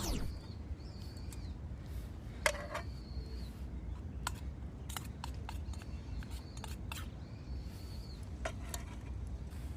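Outdoor ambience: a steady low rumble with scattered light clicks and taps, and several short high chirps at about the same pitch, each under a second long.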